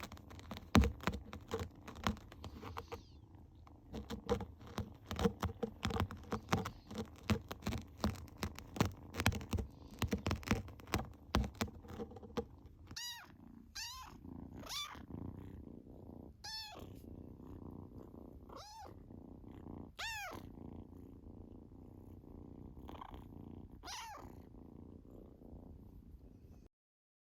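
Scottish Fold kitten purring close up, with rapid irregular clicks and knocks through the first half. In the second half, about eight short high mews that rise and fall in pitch sound over a steady purr, which cuts off abruptly near the end.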